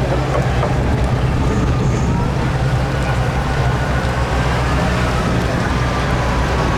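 Tractor engine running steadily and loudly, with a faint whine over it in the second half.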